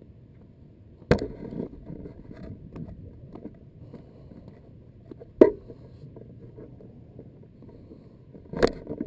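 Sharp knocks and clatter with light scraping between, three loud hits about a second in, around five seconds in, and a cluster near the end: a freshly caught speckled trout and gear being handled while the fish is laid out for measuring.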